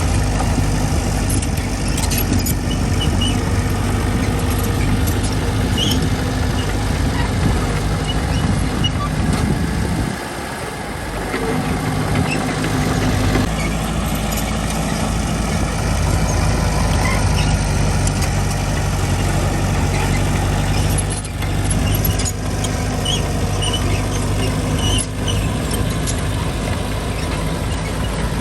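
Diesel engine of heavy earthmoving machinery running steadily with a low, even hum. It eases off briefly about ten seconds in and then picks back up.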